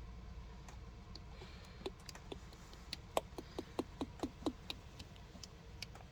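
Motor oil glugging out of a bottle into the engine's oil filler: a string of quiet short gurgles and clicks, coming thickest about three to four and a half seconds in.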